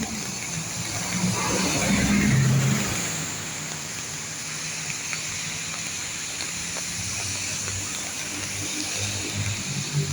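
Steady hiss of rain falling, with a car passing on the wet road, loudest about two seconds in.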